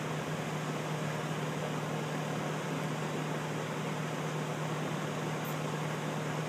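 Steady background noise: an even hiss with a constant low hum underneath, unchanging throughout, with no thunder or other sudden sound.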